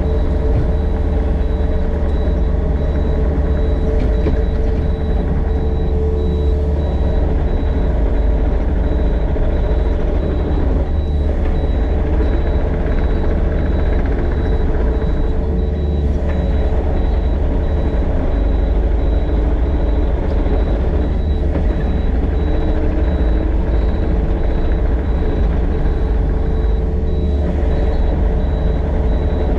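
Excavator's engine running steadily as the machine grades dirt, with an even, unbroken level throughout.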